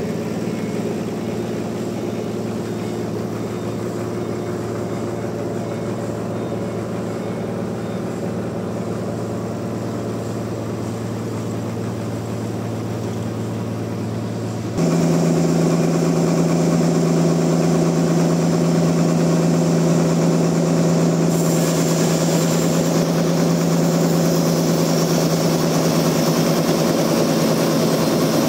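Sawmill engine running at a steady speed. About halfway through, the sound abruptly becomes louder and brighter, and a few seconds later a high hiss joins it.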